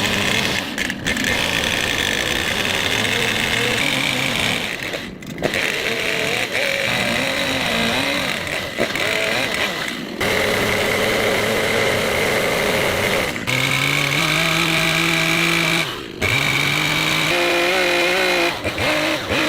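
Two-stroke chainsaw running and cutting, its engine pitch rising and falling with load, broken by several abrupt short gaps.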